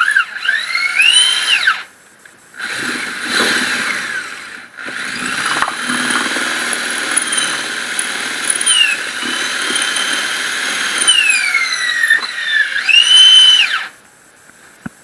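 Electric drill cutting into wood with a high whine whose pitch rises and falls as the bit loads and unloads. It stops briefly about two seconds in and again near five seconds, then cuts off near the end.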